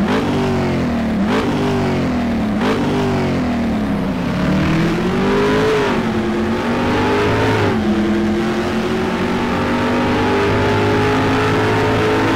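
Car engine revving in a series of throttle blips, its pitch jumping up and sagging back several times with a short click at some of the blips, then running at a steady higher speed from about two-thirds of the way in.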